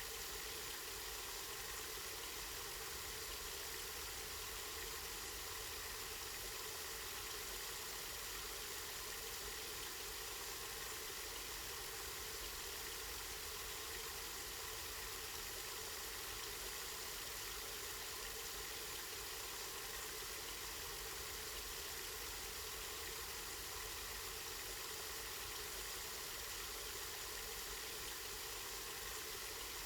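Water flowing steadily from a spring, a constant even rush and splash.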